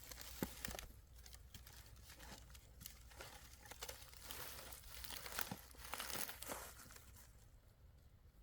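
Irregular rustling and crinkling with scattered light clicks, as of something being handled, easing off near the end.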